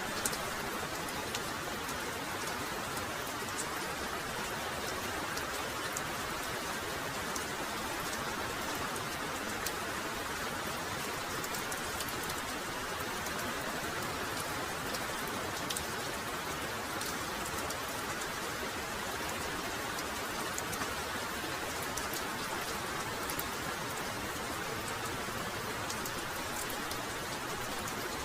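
Heavy rain falling steadily, with scattered sharp ticks of single close drops in the steady downpour.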